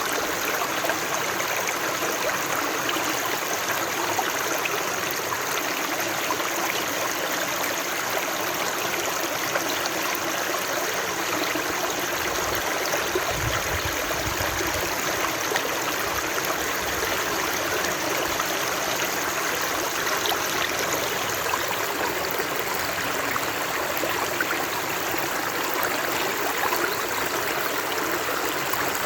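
Steady rushing and trickling of a stream flowing over rocks. A brief low rumble is mixed in about halfway through.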